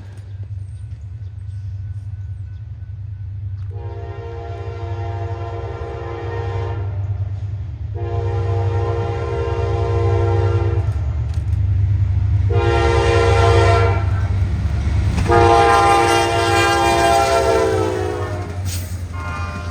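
Approaching train sounding its multi-tone horn in the grade-crossing pattern, long, long, short, long, over the steady rumble of the train, which grows louder as it nears. The pitch of the last long blast sags at its end as the train goes by.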